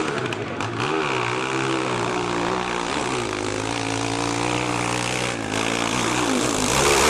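Dirt bike engine running hard on a hill climb, droning steadily with its pitch dipping and climbing a few times.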